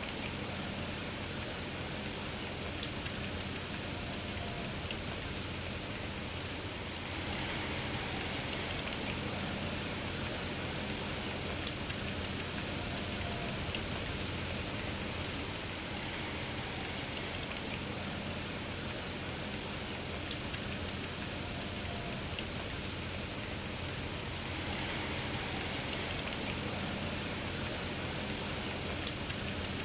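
Steady rain falling, an even hiss of drops, with a single sharp drip-like tick four times, about every nine seconds.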